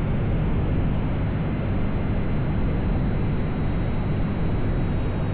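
Cessna 182's piston engine and propeller droning steadily, heard inside the cabin.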